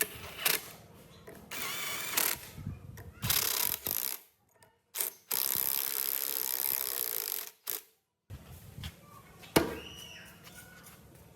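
Workshop sounds of metal machine parts being handled and fitted: clicks and mechanical rattling, a steady rush of noise from about five to seven and a half seconds in, and a sharp metal knock near ten seconds. The sounds come in short cut snippets with brief silent gaps between them.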